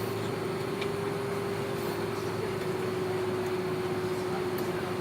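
Cabin noise inside an Airbus A330-300 taxiing after landing: a steady rushing hum with a strong droning tone that sinks very slightly in pitch.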